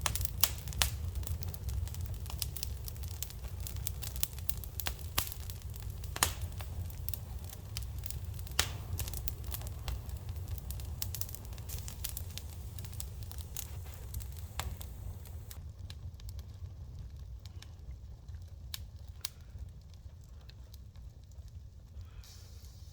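Fire in a fireplace burning New Year pine decorations, crackling with frequent sharp pops over a steady low rumble. The pops grow fewer and the fire quieter about two-thirds of the way in.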